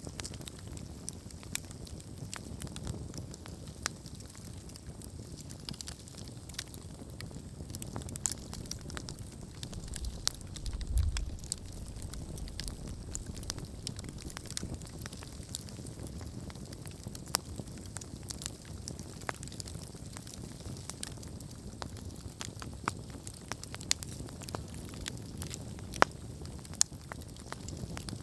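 Wood campfire burning, with irregular sharp crackles and pops over a steady low rush of flame. There is a brief low rumble about eleven seconds in.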